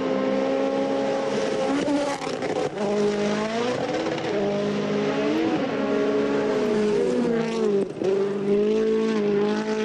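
Rally car engine under hard acceleration, its pitch climbing through the revs and falling back again and again as it shifts gear and lifts, with short lifts off the throttle about two seconds in and near eight seconds.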